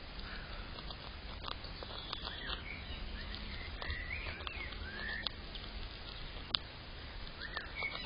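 Small birds giving short chirping calls, with scattered sharp clicks or taps, over a steady low hum.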